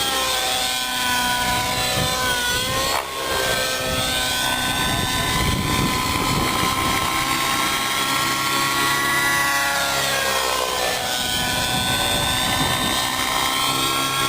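Nitro-engined radio-controlled helicopter in flight: a steady high engine and rotor whine whose pitch sweeps down and back up twice as it manoeuvres, with a short click about three seconds in.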